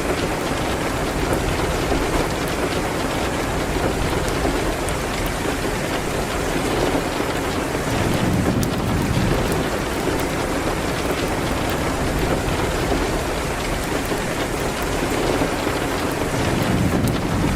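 Steady rain hitting a window: an even, rushing hiss with faint scattered ticks.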